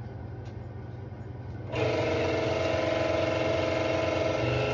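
A low steady hum, then about a second and a half in a louder steady machine whir, with several fixed tones over a noisy rush, starts abruptly and holds.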